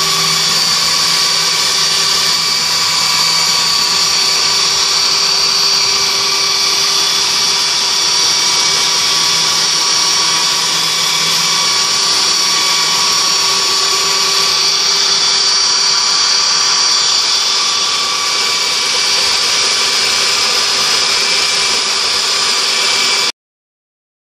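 Electric sander running steadily as it sands down the edge of a door that rubs on its frame, then cutting off abruptly near the end.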